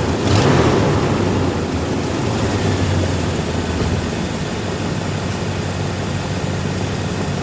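1990 Chevrolet K1500's 350 V8 (5.7L TBI) running at idle with an exhaust leak, with a short louder burst about half a second in, then a steady idle.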